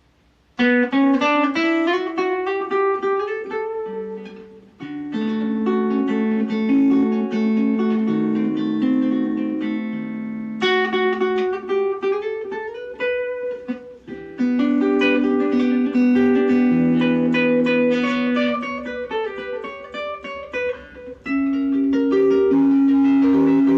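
Godin ACS Slim Multiac nylon-string guitar playing a solo melodic piece: plucked single notes and chords in phrases, with short breaths between them about every four to six seconds.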